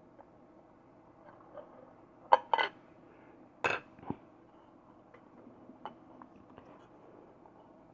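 A few short clicks and taps from handling small parts and tools on a workbench while wiring an LED light: a pair about two and a half seconds in, a louder one near four seconds, and faint ticks between them.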